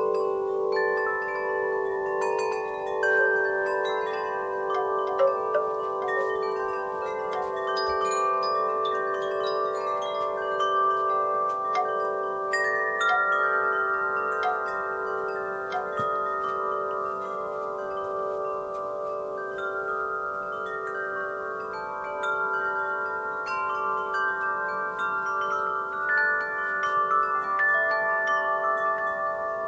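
Wind chimes ringing continuously, many overlapping long-ringing tones that waver slowly as they blend, with light, scattered high strikes as the chimes knock together.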